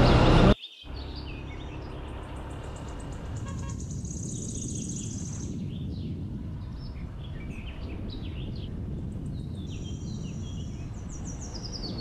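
Birds chirping and calling over and over above a steady low rumble, with a high buzzing trill twice, about four and ten seconds in. A louder sound cuts off suddenly about half a second in.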